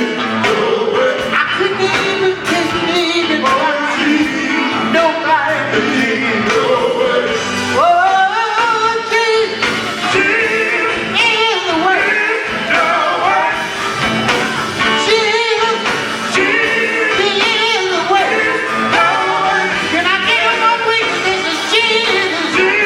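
Male gospel group singing live with band accompaniment, the lead voice sliding up to a high held note about eight seconds in.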